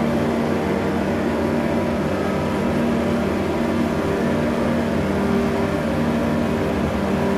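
Electronic drone from a Korg Electribe 2 sampler run through Chase Bliss Mood and Make Noise Strega effects: a dense, steady hum of several held low tones, with no beat or break.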